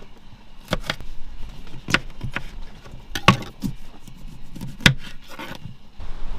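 About half a dozen sharp clicks and knocks at irregular intervals, over a low steady background.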